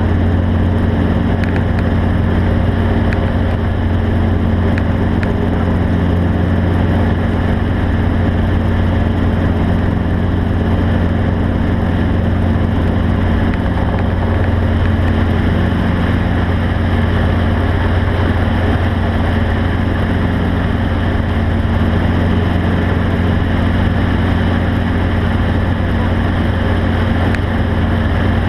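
A steady, loud engine drone with a low hum that holds at one pitch, with no revving or change in speed.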